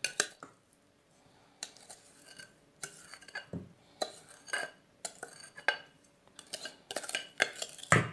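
A spoon scraping and clinking against a bowl in short, irregular strokes, as an oil and sugar mixture is worked into flour for cake batter.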